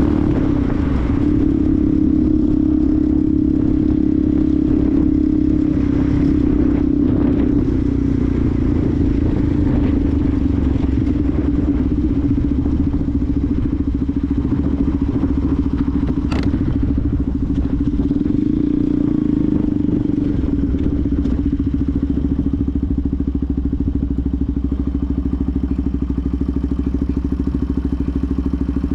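Benelli TNT 125's single-cylinder 125 cc four-stroke engine running steadily under way, holding an even pitch with a slight dip about two-thirds through. There is one sharp click about 16 seconds in.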